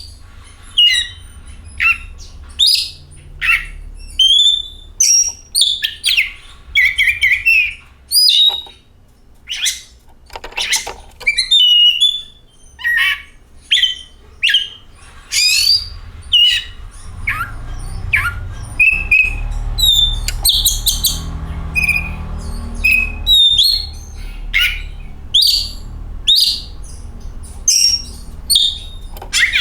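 Oriental magpie-robin (kacer) singing: a quick run of short, varied whistles and chirps, many sliding up or down in pitch, with a brief rattling trill now and then and short gaps between phrases.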